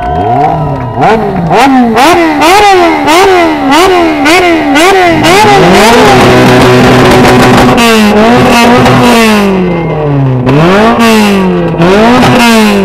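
A vehicle engine being revved hard in a contest for engine sound. About two quick blips a second over the first few seconds, then held at high revs for a couple of seconds, let down, and revved twice more before falling back.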